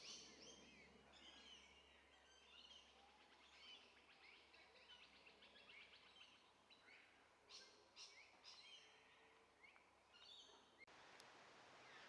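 Faint chorus of small birds: many short high chirps and quick whistled sweeps overlapping. Near the end it gives way abruptly to a steady hiss.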